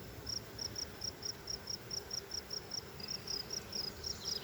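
A cricket chirping steadily, short high chirps about three to four a second, with a faint hum of honeybees from the open hive underneath.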